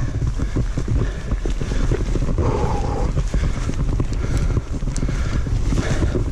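Mountain bike rattling and knocking over rough, rocky trail: a fast, uneven run of short knocks over a heavy low rumble.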